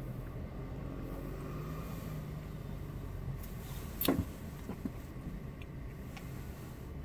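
Steady low rumble of a car cabin, with one sharp knock about four seconds in.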